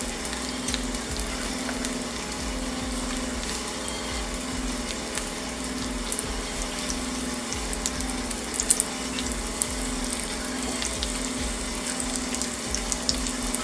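Shrimp sizzling in hot oil and melted butter in a frying pan as they are laid in one by one. The frying runs steadily, with scattered crackles.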